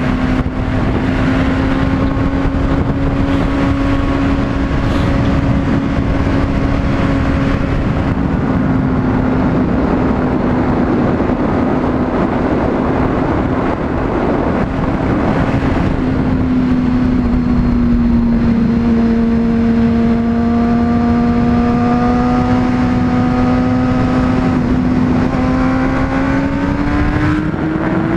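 Honda CBR600RR inline-four engine running at a steady cruise under heavy wind rush. Its note sags a little past the middle, then climbs as the bike accelerates near the end.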